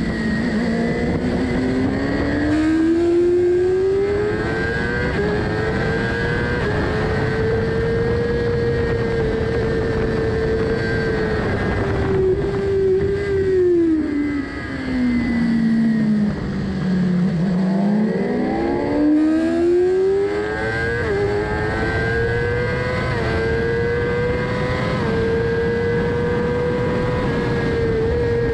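Sport motorcycle engine heard from an onboard camera at high revs under load. The revs climb and hold, drop away steeply through the middle as the bike slows for a corner, then climb again with several quick upshifts near the end as it accelerates hard. Wind rush runs underneath.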